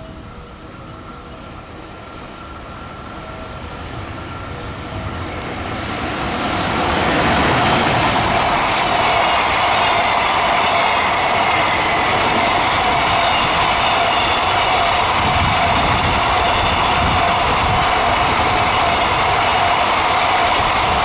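Electric freight train passing close by: its noise builds over the first several seconds as the locomotive draws near, then a loud, steady wheel-on-rail rumble as the long line of container wagons rolls past.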